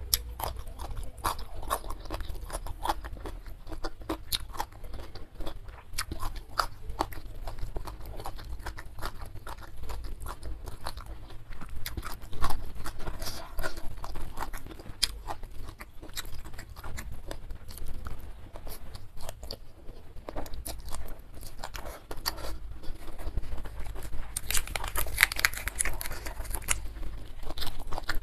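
Close-miked chewing and crunching of a mouthful of fried chicken and rice, a steady run of small wet chews and crisp crackles with no pauses. A louder, denser burst of crunching comes near the end.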